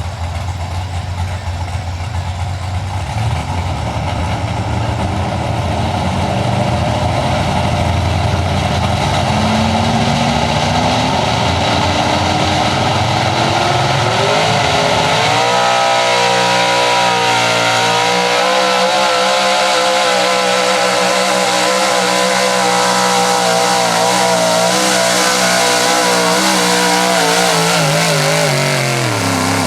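Big-block pulling truck's engine under full load down the track: low and rough at first, then revving up steadily over several seconds. It holds at high revs with a wavering pitch, then falls off sharply near the end as the throttle is let off.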